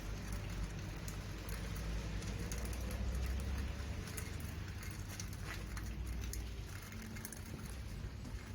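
Falling snow pattering steadily, with many faint ticks, over a low rumble that swells about three seconds in.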